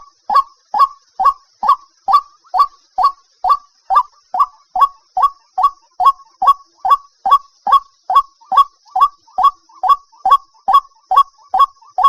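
White-breasted waterhen calling its repeated 'kwok' note, a little over two short, evenly spaced notes a second, a lure call used for netting at night.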